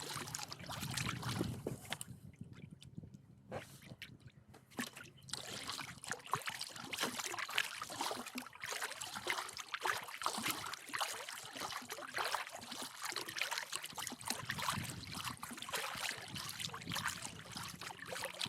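Water trickling and splashing from a canoe paddle as it dips and pulls through the water. There is a quieter stretch about two seconds in that lasts a few seconds.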